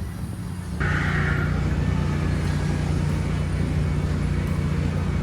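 Steady low hum of a motor vehicle's engine and road noise, which gets louder about a second in and then holds steady.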